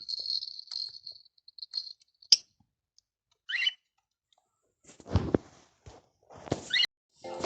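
A parrot making two short chirps amid clicking and crunching noises, with a heavier knock about five seconds in.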